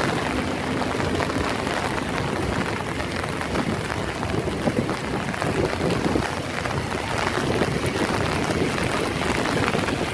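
Heavy rain pouring down: a steady, dense patter of drops.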